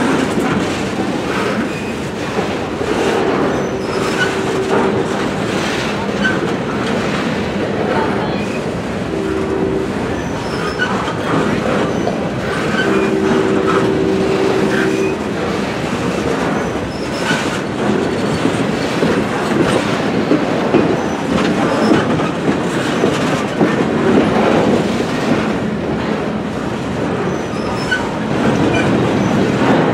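Freight train of loaded flatcars rolling past: a steady rumble of steel wheels on rail with scattered clicks and clanks. A low steady tone sounds three times, twice for about two seconds and once briefly.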